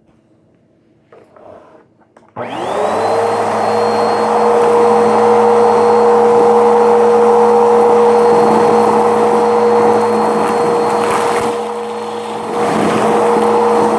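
Vacuum cleaner switched on about two seconds in, its motor spinning up to a steady high whine with a rush of air. Near the end it goes briefly quieter, then comes back up.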